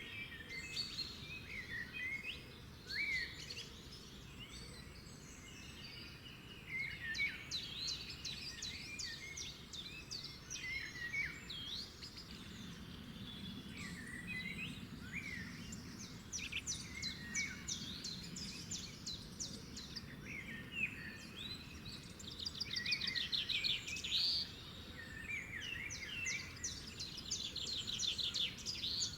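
Songbirds chirping and singing, with short up- and down-sweeping calls and several fast trills, over a faint steady low background noise.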